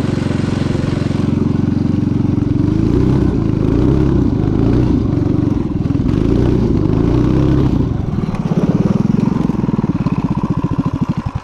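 Vintage minibike's small engine running close by, its pitch rising and falling with the throttle, then dropping to slow, separate firing pulses about eight seconds in as it settles toward idle.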